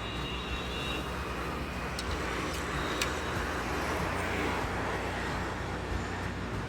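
Steady road traffic noise: an even rumble and hiss of passing vehicles, with a few faint clicks about two and three seconds in.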